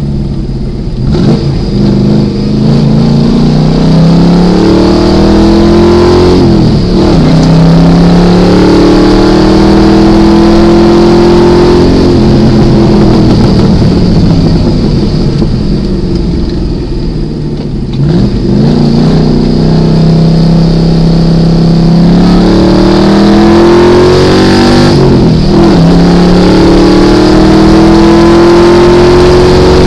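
A 1973 Datsun 240Z's engine pulling hard up through the gears, heard from inside the car. The pitch climbs steadily and then drops sharply at each shift. Around sixteen to eighteen seconds in it falls low and a little quieter, then climbs again through the gears.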